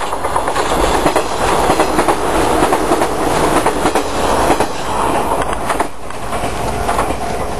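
403/415-series electric multiple-unit local train passing close by, its wheels clattering over the rail joints. The noise eases about six seconds in as the last car goes by.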